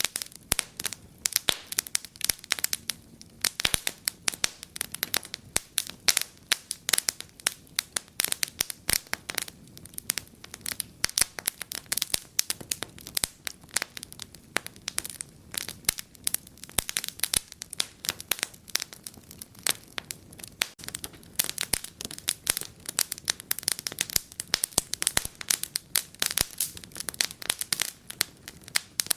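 Wood fire in a fireplace crackling, with dense, irregular pops and snaps many times a second over a low steady hiss.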